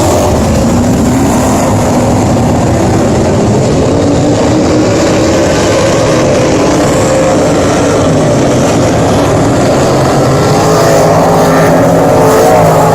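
Race car engines running loud and continuous, several pitches wavering and rising and falling as they rev.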